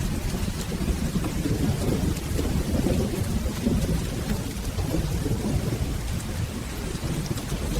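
Steady rain with a continuous low rumble of rolling thunder underneath, and faint scattered ticks of drops.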